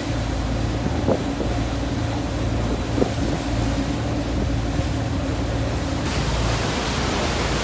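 A large sightseeing boat's engine running with a steady low drone, under wind buffeting the microphone and the sea rushing past the hull. The wind and water hiss grows louder about six seconds in.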